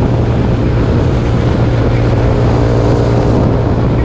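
200cc trike engine running at a steady cruise, its note holding an even pitch, with wind rushing over the microphone.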